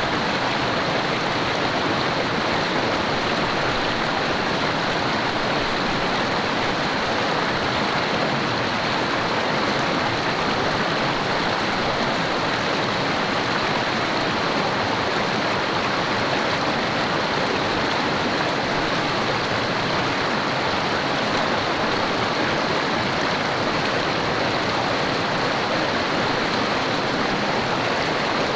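Mountain river running over rocks: a steady, unbroken rush of flowing water.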